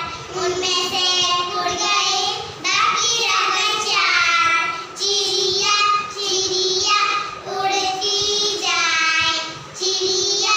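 Young children singing a Hindi counting rhyme in short sung phrases.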